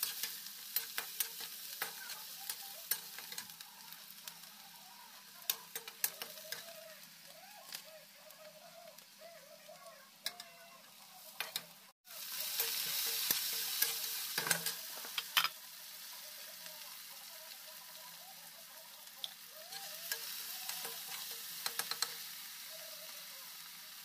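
Chopped onion sizzling in hot oil in a black iron kadhai, with a spatula scraping and clicking against the pan as it is stirred. A little before halfway the sizzle grows louder for a few seconds, once tomatoes and green chillies are in the pan, then settles.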